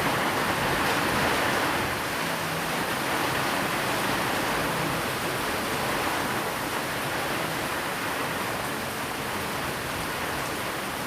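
Steady heavy rain, a dense even hiss with no single drops standing out, a little louder in the first two seconds.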